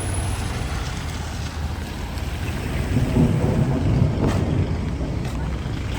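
Outdoor street ambience: a steady low rumble of wind buffeting the microphone over passing traffic, swelling louder for a second or so about halfway through.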